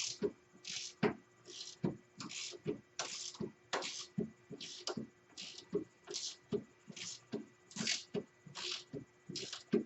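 Hand ratchet wrench working an A-arm bolt on an ATV front suspension: a short rattle of clicks repeating about every three-quarters of a second, stroke after stroke.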